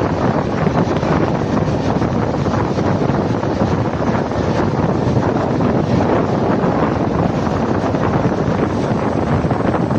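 Steady wind buffeting the microphone over the rumble of a moving train.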